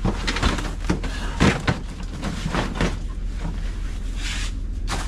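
Objects being handled and set down while rummaging through a storage unit: a run of knocks and clatter in the first three seconds, over a steady low rumble. A short hissing rustle follows near the end.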